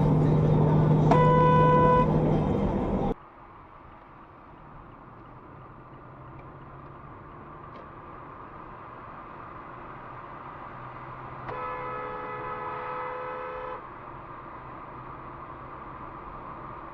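Car horn honking twice. A short honk about a second in sounds over loud road and engine noise, which drops off abruptly about three seconds in. A longer honk of about two seconds comes near the end, over quieter traffic noise.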